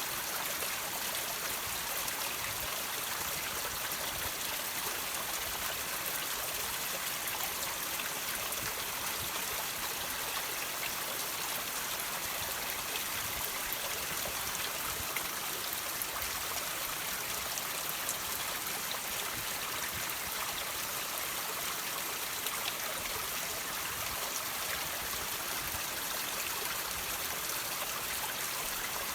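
Water trickling and dripping over rocks: a steady hiss of running water with a few faint drips.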